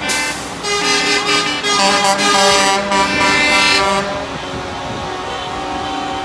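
Truck air horns blowing, several held tones sounding together for about four seconds, then a fainter single horn tone carrying on.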